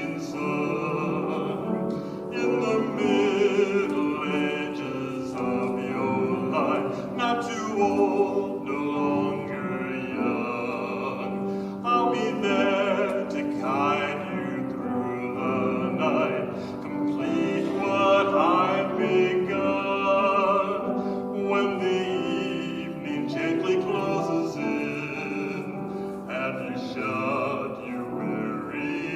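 A male soloist singing a slow sacred song, accompanying himself on piano, his voice carrying a wavering vibrato over sustained piano chords.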